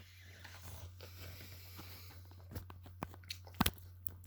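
Faint scattered clicks and taps over a steady low hum, growing more frequent in the second half, with one sharper click about three and a half seconds in.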